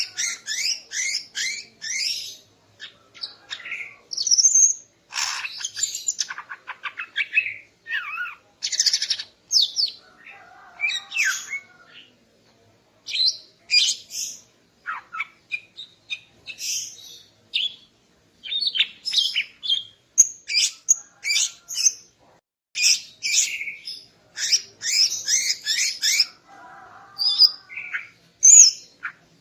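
Female green leafbird (cucak ijo) calling: quick runs of high, sharp chirps and short whistled phrases, a second or two at a time with brief pauses between them and a longer pause about twelve seconds in.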